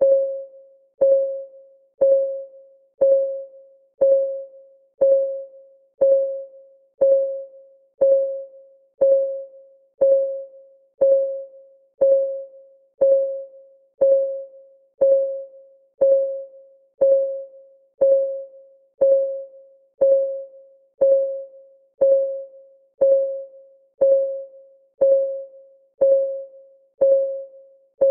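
Clock-ticking sound of a countdown timer: one tick each second, each a short pitched tock that dies away quickly, evenly steady throughout.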